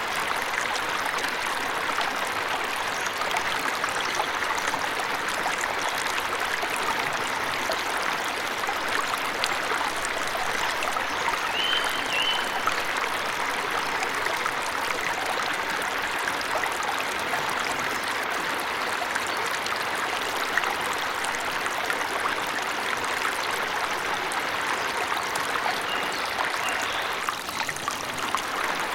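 Waterfall rushing steadily, with a bird's brief high chirp about twelve seconds in and again near the end.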